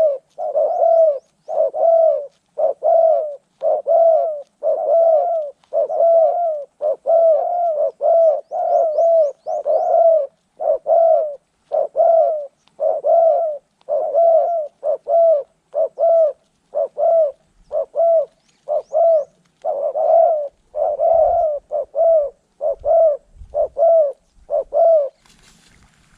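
Spotted dove cooing over and over, a steady run of short low coo notes about one and a half a second, which stops shortly before the end.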